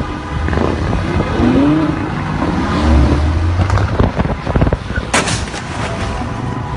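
Vehicle road noise with a low rumble, a cluster of knocks and then one sharp, loud bang about five seconds in.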